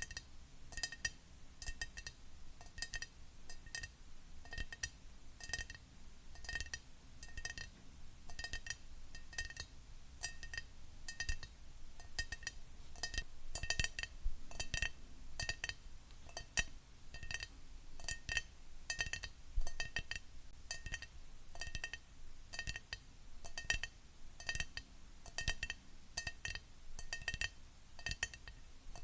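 Fingernails tapping on a glass object: quick, light taps about twice a second, each with a short ringing clink at the same pitch.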